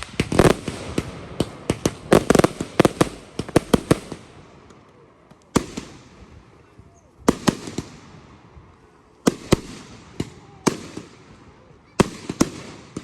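Fireworks display: a quick run of sharp bangs and crackles over the first four seconds, then single loud bangs every second or two, each trailing off as it fades.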